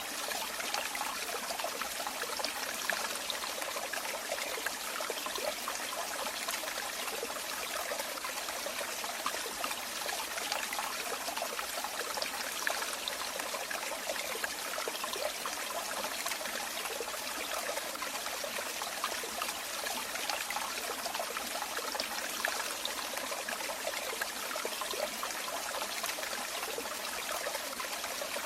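Running water trickling and splashing steadily, like a small stream or water falling over stones.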